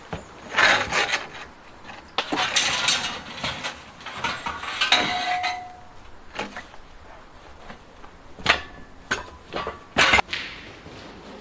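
Steel workpieces and tools being handled on a workbench: scraping bursts and sharp knocks, with one piece ringing briefly about five seconds in.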